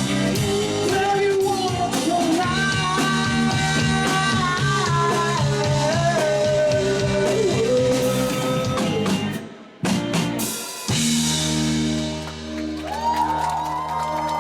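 Rock band playing with a singer over electric guitar, bass and drums. About ten seconds in the song breaks off with a brief drop, then a held guitar chord rings out.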